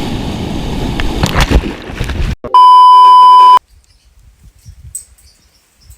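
Steady outdoor noise on the microphone with a couple of knocks, cut off abruptly about two and a half seconds in, then a loud, steady, high-pitched beep tone lasting about a second, after which it goes nearly quiet.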